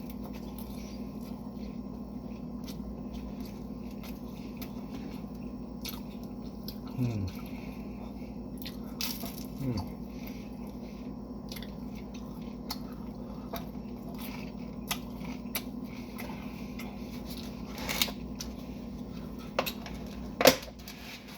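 Close-up eating sounds: chewing and crunching through a salad roll, with scattered clicks and taps of chopsticks over a steady low hum. A couple of short, falling 'mm' hums of the voice come partway through, and a sharp click near the end is the loudest sound.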